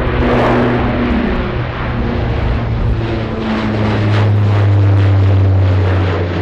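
Airliner engines running close by: a steady low drone with a hum that shifts slightly in pitch, swelling to its loudest about four to five seconds in.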